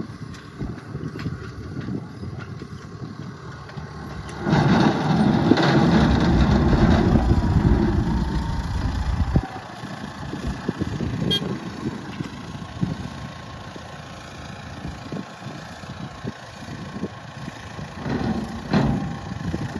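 Truck engine running. A louder stretch comes in about four and a half seconds in and cuts off suddenly around nine and a half seconds, and there is a shorter rise near the end.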